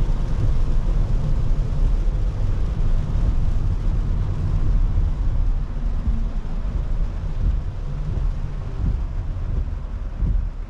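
A car driving on a rain-wet road: a steady low rumble from the tyres and engine under an even hiss from water and rain. It eases off somewhat near the end.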